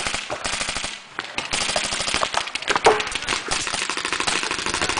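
Paintball markers firing rapidly, a dense stream of sharp pops with a short lull about a second in.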